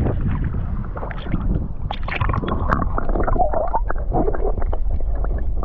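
Water splashing and sloshing around a kayak, with a steady low wind rumble on the action-camera microphone and many short sharp splashes.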